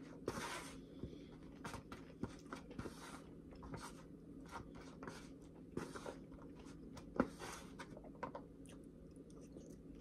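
Chewing a mouthful of food close to the microphone: scattered wet mouth clicks and smacks, with a few louder ones.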